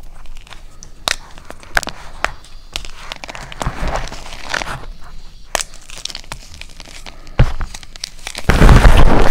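A dyed block of SPRI gym chalk being crushed: scattered crisp crackles and snaps as it breaks up, with a sharp crack about seven seconds in, then a loud, dense run of crunching near the end.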